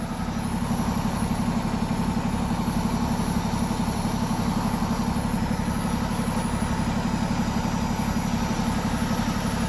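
A vehicle engine idling steadily close by, with a fast, even throb.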